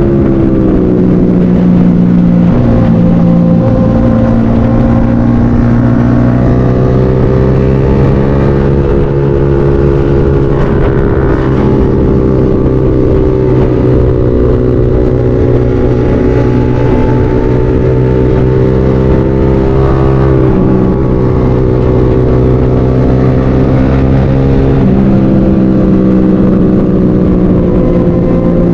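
Motorcycle engine under way at steady cruising revs, its pitch sagging and climbing back a few times as the throttle eases and opens.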